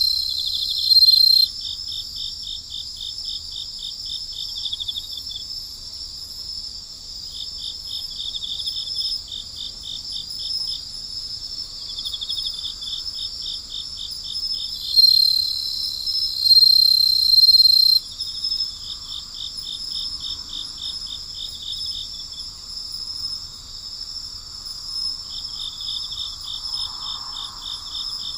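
Night chorus of crickets: a steady high-pitched trilling throughout, with runs of rapid pulsed chirps lasting a few seconds that come and go. A louder, steadier trill stands out at the very start and again for about three seconds past the middle.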